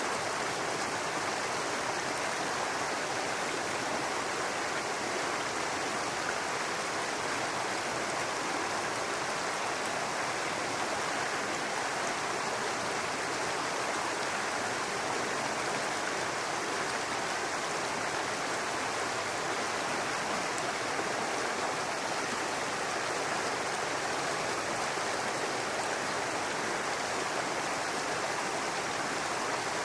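Brook running and babbling over stones: a steady, even rush of water.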